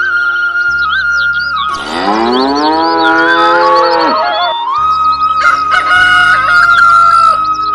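A cow mooing once, a long call of about two seconds that rises and then sinks in pitch, over flute-like background music.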